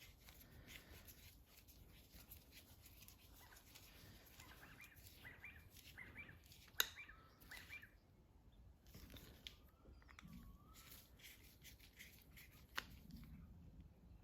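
Faint clicks and scrapes of a screwdriver tightening the small screws of a hedge trimmer's primer bulb retainer in turn, with short squeaks and two sharper clicks, one about seven seconds in and one near the end.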